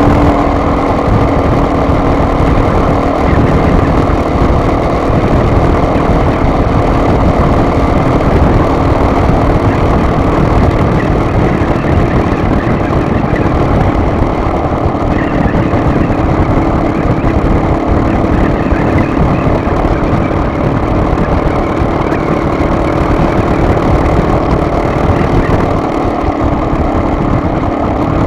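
Steady engine drone and road rumble of a car on the move.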